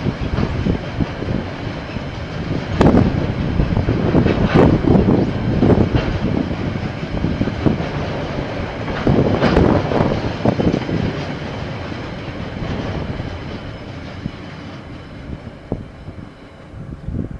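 KiwiRail train rolling past: a steady rumble with irregular sharp clacks as the wheels cross rail joints, fading away over the last few seconds.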